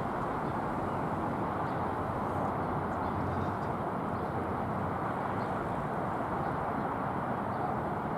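Boeing 777 jet engines running, a steady, even noise.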